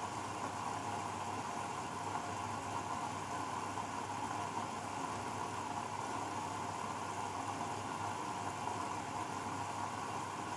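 Grundig washing machine spinning at about 600 rpm: an even motor hum and drum rush with a steady mid-pitched whine.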